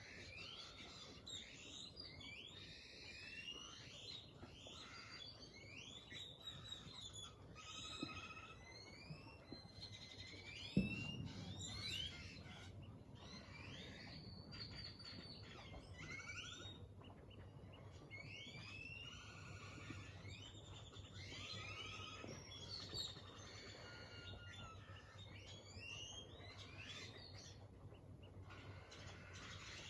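Several birds chirping and whistling, with many short overlapping calls, quiet overall. A single thump about eleven seconds in.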